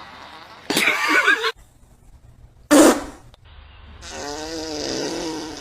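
A run of fart sounds: a noisy blast about a second in, a short sharp one near three seconds, and a longer, pitched, wavering one near the end.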